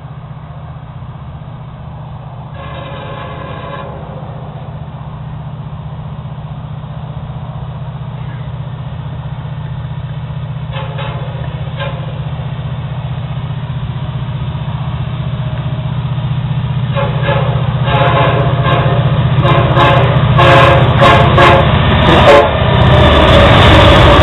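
Diesel locomotives of an approaching freight train: a steady low engine rumble that grows louder throughout. The air horn sounds briefly about 3 seconds in and again near the middle, then in longer blasts over the last seven seconds as the train draws close.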